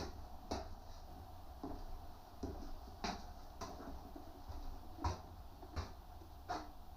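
Scattered light knocks and clicks, about eight in seven seconds, over a faint low steady hum, typical of objects being picked up and set down on a workbench.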